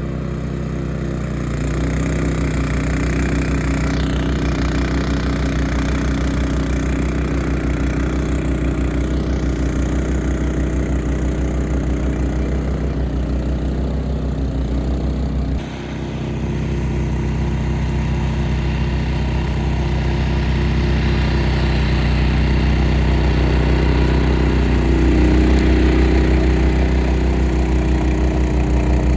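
Honda HSS1332A snowblower's single-cylinder engine running steadily under load while clearing deep snow, with a brief dip about halfway through and slightly louder running near the end.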